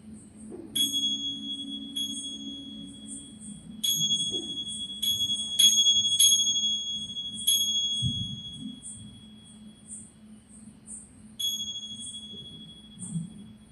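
Small high-pitched bells or chimes struck about eight times, each strike ringing on and fading slowly. The strikes come thickest in the middle, over a faint low steady drone.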